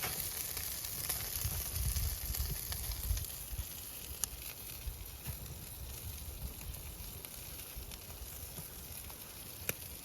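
Salmon grilling over a wood campfire, sizzling steadily, with a few sharp crackles from the fire.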